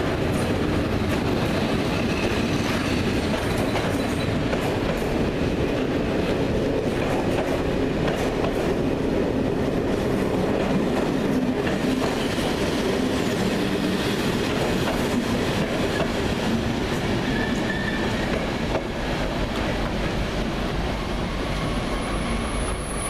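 Passenger coaches of an incoming electric-hauled train rolling past at low speed, wheels rumbling on the rails with faint high squeals now and then. The sound eases slightly near the end as the last coach draws away.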